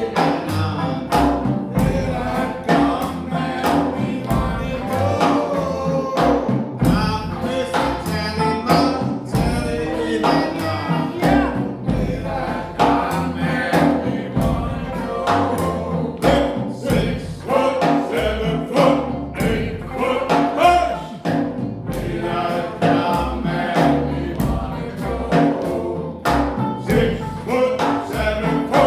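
Live revival jazz band playing a song with sung vocals over a steady beat.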